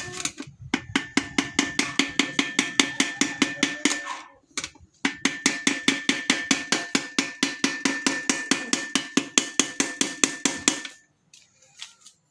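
Rapid, evenly spaced metal-on-metal taps, about seven or eight a second with a ringing tone, as the toothed lock ring of a motorcycle's fuel gauge sender is knocked round on the tank to loosen it. The tapping comes in two long runs with a brief pause between them and stops about eleven seconds in.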